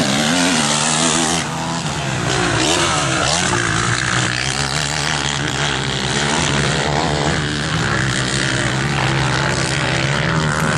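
Several motocross bikes racing, their engines revving up and down over one another.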